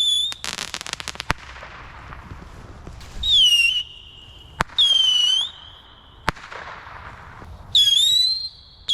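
Neon Moon Traveler whistling stick rockets going off one after another. There are four short, shrill whistles, each dipping slightly in pitch and then holding. A quick run of crackles comes about half a second in, and sharp single bangs fall between the whistles.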